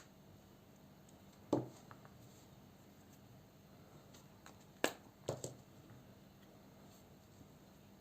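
A few sharp clicks and knocks of small hard objects being handled: one about a second and a half in, then three in quick succession around five seconds in.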